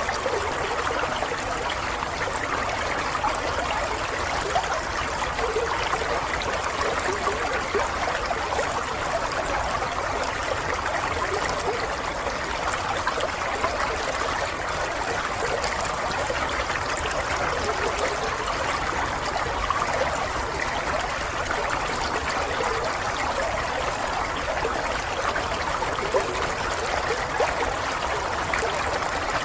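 Water flowing steadily in a stream, a continuous babbling trickle.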